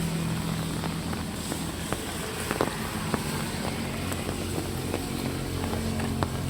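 A vehicle engine hums steadily at a constant pitch, over light drizzle with scattered drips and ticks.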